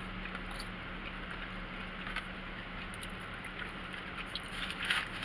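Quiet eating noises: a few faint clicks and soft taps of food and wrappers being handled and chewed, over a steady low hiss and hum.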